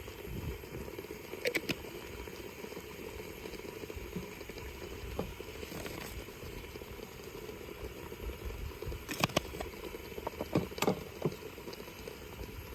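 Chicken cooking in a pan on an outdoor burner, a steady hiss and rumble, with a few sharp clicks of a utensil against the pan about a second and a half in and again near the end.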